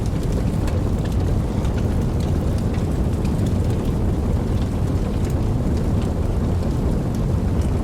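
Steady rain: a deep, even rushing noise with scattered sharp ticks of individual drops.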